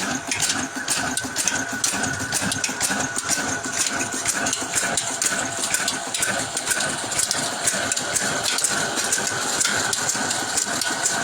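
Old irrigation water-pump engine running steadily, an even mechanical clatter.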